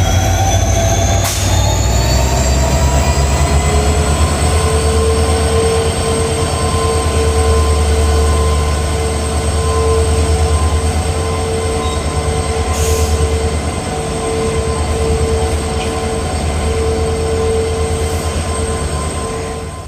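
Train hauled by an EMD diesel locomotive running through the station, with a pulsing low engine rumble and several high whining tones. The tones rise in pitch over the first few seconds, then hold steady.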